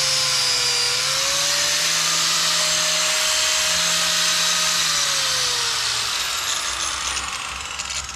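A hand-held electric power tool running at speed with a steady whine, then falling in pitch and winding down over the last few seconds.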